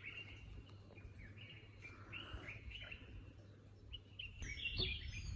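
Faint birds chirping: scattered short chirps and calls that grow busier and louder near the end, with some quick gliding whistles.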